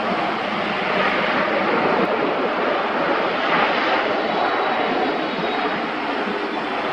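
Jet engines of a Japan Airlines Boeing 787-8 airliner running, a loud, steady broad rush of engine noise without pauses.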